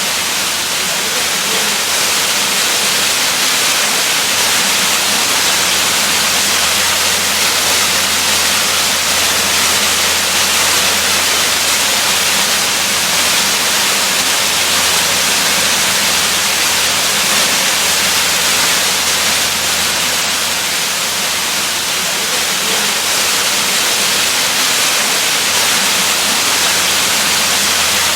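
Waterfall rushing in a steady, unbroken hiss, with no change from start to end.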